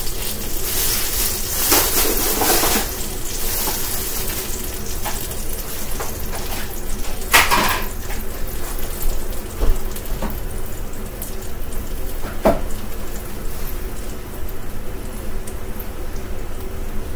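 Chicken wings sizzling on a pan just out of a 425-degree oven, with a few clatters of the pan, about two seconds in, around the middle and again later.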